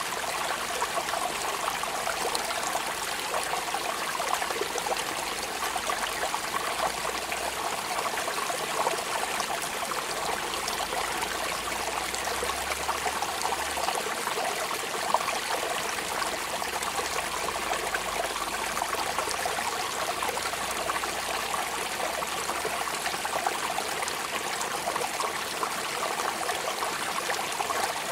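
Steady rain falling, an even wash of many small drops that never lets up.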